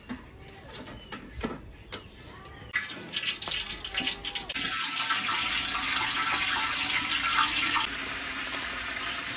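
Chicken feet frying in hot oil in a large pot over a wood fire: a sizzling, crackling hiss that jumps up suddenly about three seconds in and then runs on steadily.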